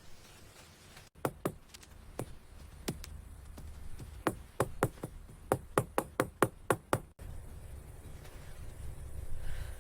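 A run of about fourteen sharp knocks at an uneven pace over a low rumble, starting and stopping abruptly.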